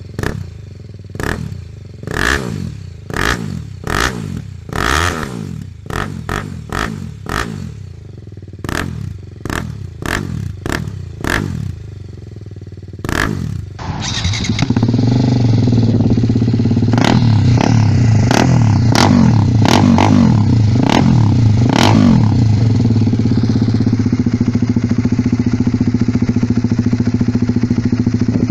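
BMW G310GS single-cylinder engine revved with a long series of quick throttle blips through an MIVV full exhaust system. About 14 seconds in it cuts to the same bike on an SC Project full exhaust, idling louder, with a burst of about five blips before settling back to a steady idle.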